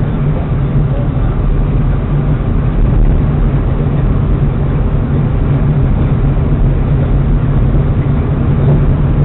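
Steady low rumble of a car with its engine running, unchanging throughout.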